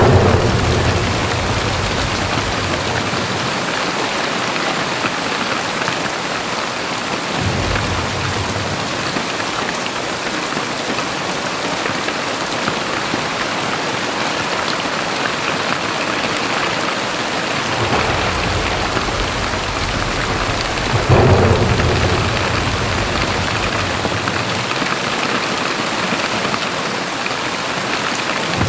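Heavy rain pouring steadily, with a deep rumble swelling up four times: right at the start, a quarter of the way through, and twice about two thirds through. The first and last of these are the loudest.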